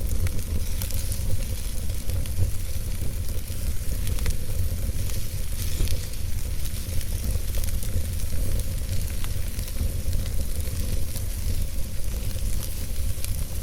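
Wood fire burning in a fireplace: a steady hiss full of many small, irregular crackles and pops over a constant low rumble.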